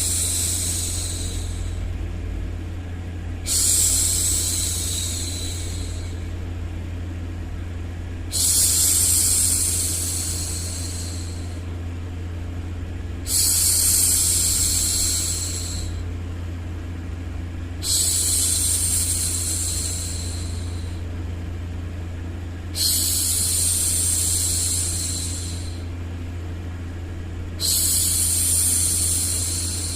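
A woman's voice making long 'shhh' hushing sounds for a baby, repeated about every five seconds, each one starting strong and fading over a couple of seconds. Underneath runs a steady low hum of white noise.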